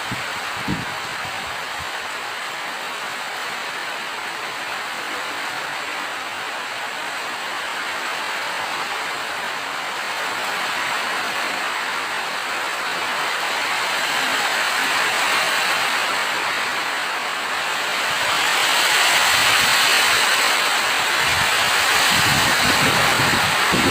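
Steady rain falling, growing heavier about halfway through and again near the end, with a single short knock under a second in.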